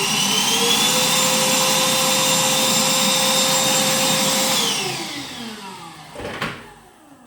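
Parkside PWDA 20 Li A2 cordless wet and dry vacuum cleaner running at full speed, a steady motor whine over rushing air. After about four and a half seconds it is switched off and winds down, falling in pitch, with a sharp click as it slows.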